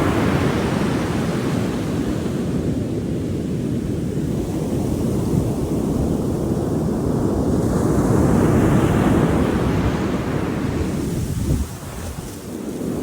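Ocean waves breaking and washing up, with wind buffeting the microphone. The surf swells at the start and again about two-thirds of the way through. The level drops suddenly near the end.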